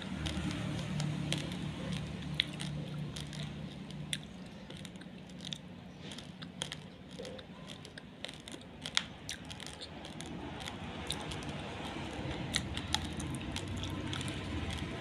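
Someone chewing raw, uncooked basmati rice: irregular sharp crunches of the dry grains cracking between the teeth, over a low steady hum.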